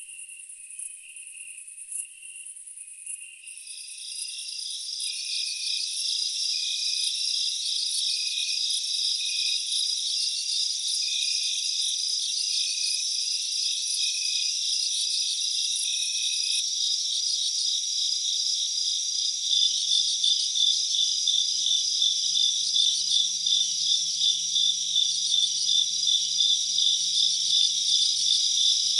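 A chorus of crickets or similar night insects: several high, fast-pulsing trills overlap, and a louder one joins about three and a half seconds in. No eruption sound is heard.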